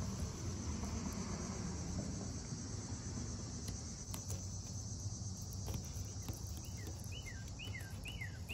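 Steady high-pitched insect chorus over a low rumble, with a few faint clicks; near the end, a run of about five short falling notes.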